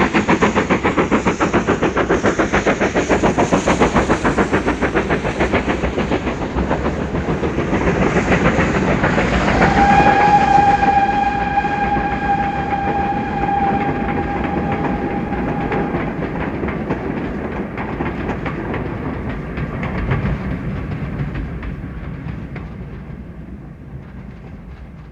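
Steam locomotive running at speed with rapid chuffing exhaust beats. About ten seconds in its steam whistle sounds one steady note for about six seconds, and then the train's sound slowly dies away.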